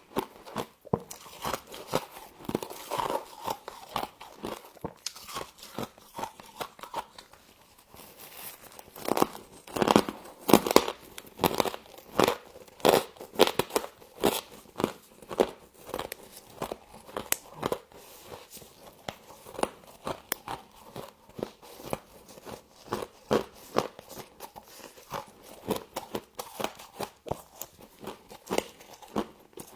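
Close-up crunching and chewing of frost: a long run of sharp, crisp crunches, with a dense, louder flurry of bites about a third of the way through.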